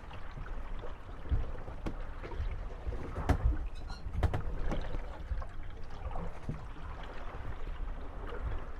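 Moored wooden gondolas rocking on lapping water, creaking and knocking against one another at irregular intervals.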